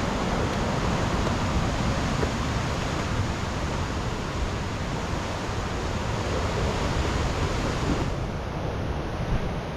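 Steady rush of sea surf, mixed with wind buffeting the microphone. About eight seconds in, the sound suddenly turns duller.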